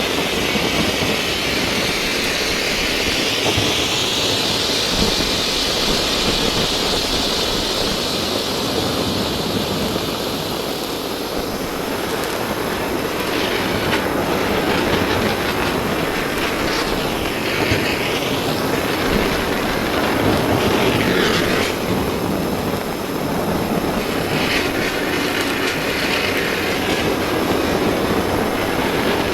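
Blowtorch flame burning steadily: a continuous rushing hiss whose higher part wavers up and down in pitch.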